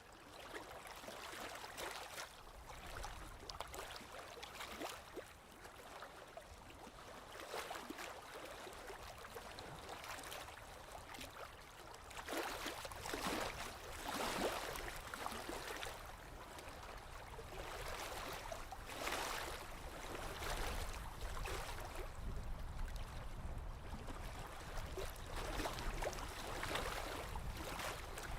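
Small waves lapping and splashing gently against a lakeshore, coming in irregular small surges every second or two.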